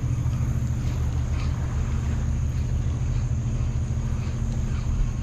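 Steady low diesel drone of a towboat pushing barges on the river, an even hum with a throb in it.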